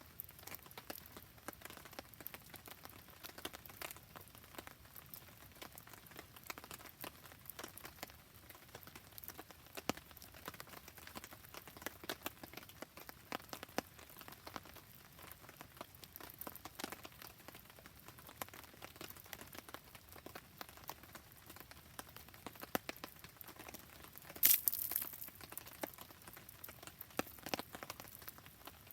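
Rain falling steadily around a crackling wood fire: a constant patter with scattered sharp clicks and pops. There is one louder burst of crackling, about half a second long, late on.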